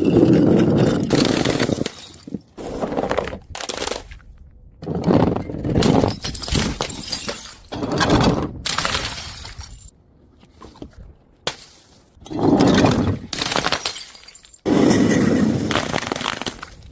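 A series of things breaking one after another: about six sudden crashes with shattering and crunching, each dying away over a second or two.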